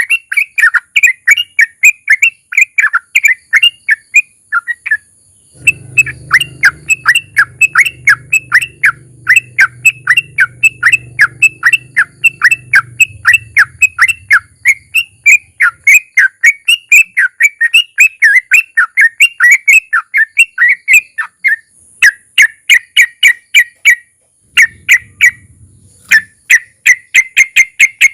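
Yellow-vented bulbul (trucukan) singing long rapid runs of short, sharp chattering notes, several a second, with brief pauses between runs. A faint low rumble lies under part of it.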